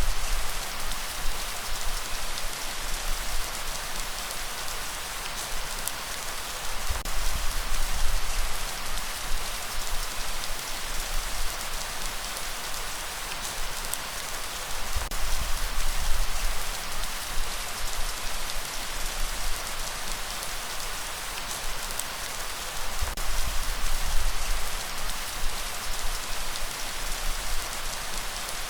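Steady heavy rain falling on a surface as a dense even hiss. A deep low rumble swells and fades under it every six to eight seconds.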